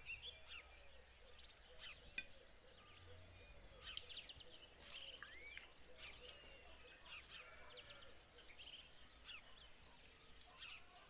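Faint birdsong: many small birds chirping and twittering, with a couple of light clicks about two and four seconds in.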